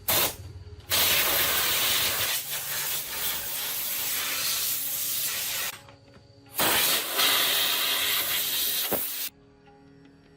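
High-pressure spray hissing in two long blasts, the first about five seconds and the second about three, after two short bursts at the very start.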